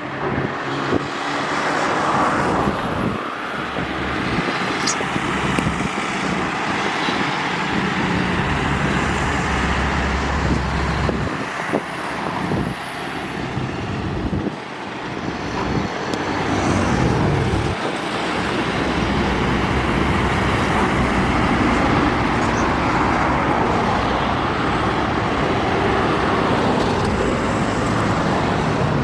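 Steady highway traffic: heavy trucks and cars passing in a continuous stream, their engine drone and tyre noise swelling and fading as each one goes by.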